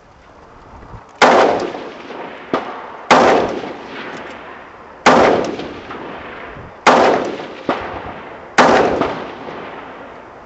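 AR-15 rifle with a BCM 14.5-inch mid-length upper firing five aimed shots, about two seconds apart, each with a ringing tail, and a couple of fainter bangs between them.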